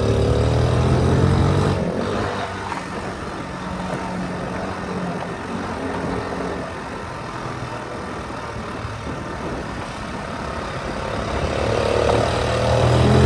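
Honda C70's small four-stroke single-cylinder engine running while the bike is ridden. Its note is clear for the first two seconds, gives way to a quieter, even rush through the middle, and comes back strong near the end.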